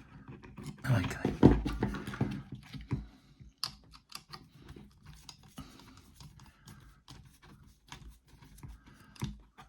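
Scattered light clicks and taps of the opened heat gun's plastic housing and internal parts being handled.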